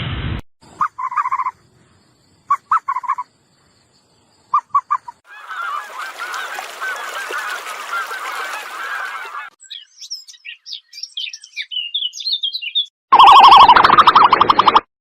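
Geese honking: three short runs of two to four honks, then a whole flock calling together for about four seconds. Small birds then chirp high and thin, and near the end a loud, rapidly pulsing call starts abruptly.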